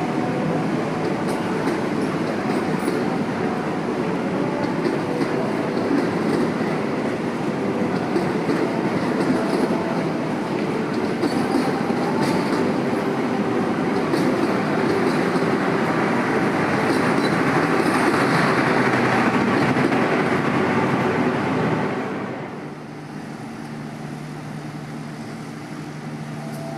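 Train running through the station, a dense rumble with wheels clattering over rail joints; about 22 seconds in the noise drops away sharply, leaving a quieter steady low hum.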